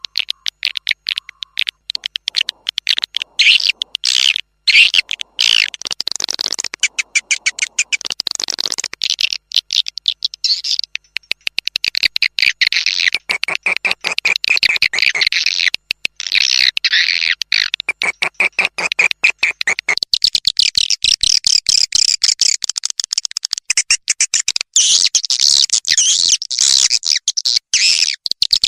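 Swiftlet lure recording: edible-nest swiftlets calling in a dense, rapid, high-pitched chittering of clicks and trills, without a break. The calls are the kind played from a swiftlet house to draw the birds in to nest.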